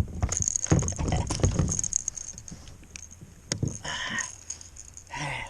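Irregular knocks, clicks and rattles of gear being handled aboard a fishing kayak, busiest in the first two seconds.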